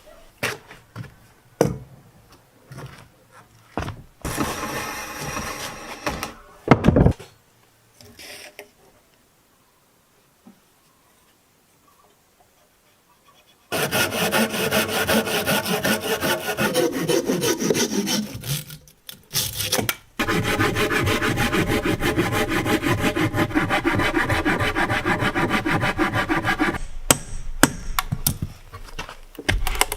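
A saw cutting through wood, rasping steadily in two long runs with a short break between them. A brief stretch of sawing, scattered knocks and a silent pause come first, and a few knocks come near the end.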